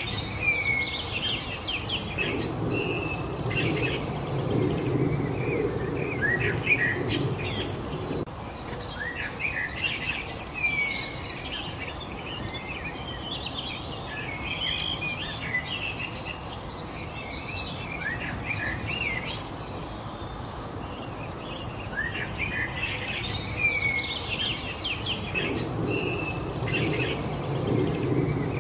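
Several songbirds chirping and singing, with quick overlapping calls and sweeping notes, over a steady outdoor background noise. A low rumble swells in a few seconds in and again near the end.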